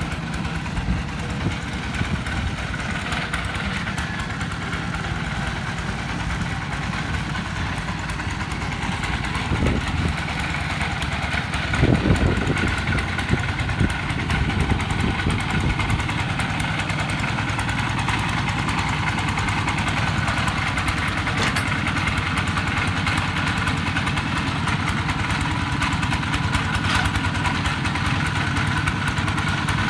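A vehicle engine running steadily, with a louder surge about twelve seconds in.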